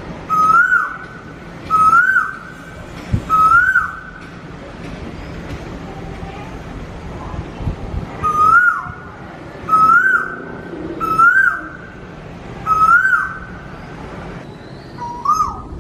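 A bird calling loudly, again and again: eight short, ringing calls that each rise and then drop sharply. They come in a run of three, then after a pause a run of four, then one more near the end.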